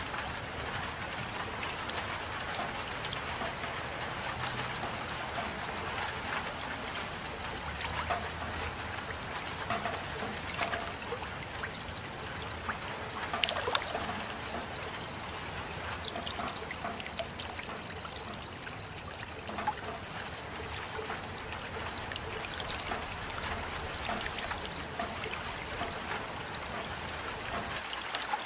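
Steady rainfall: a dense, even patter of drops with many close individual drips standing out, and a brief cluster of louder drops about halfway through.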